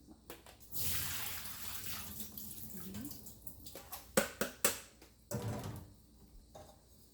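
Boiling hot water poured over vermicelli noodles to blanch them, a hiss that runs for about two and a half seconds and fades, followed by a few sharp knocks of kitchenware.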